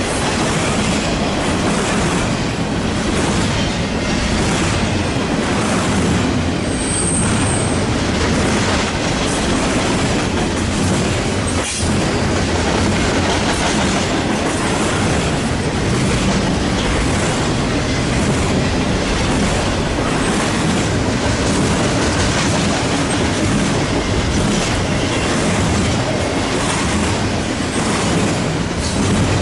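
Container cars of a long freight stack train rolling steadily past at close range: a continuous rumble of steel wheels on rail with a regular clicking of wheels over the rail joints.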